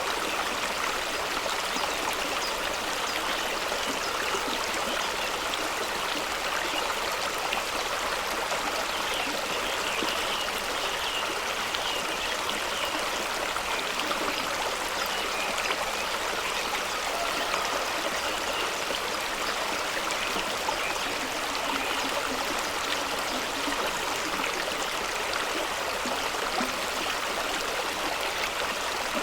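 Fast-running stream rushing and splashing over rocks in a steady, unbroken wash of water noise.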